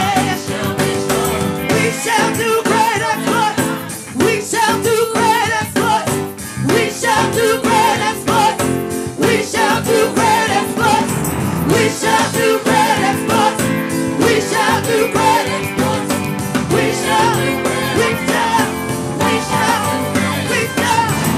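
Live gospel worship music: singing with vibrato over band accompaniment with drums.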